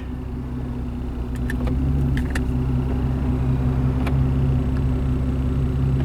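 Mercedes-Benz SL65 AMG twin-turbo V12 idling steadily, with a few faint clicks.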